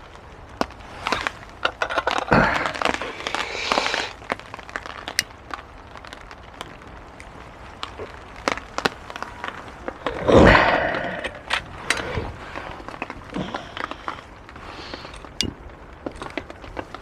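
Clicks, knocks and rattles of a Trangia camping cook kit being handled, with a louder knock and rustle about ten seconds in. Heavy rain patters steadily underneath.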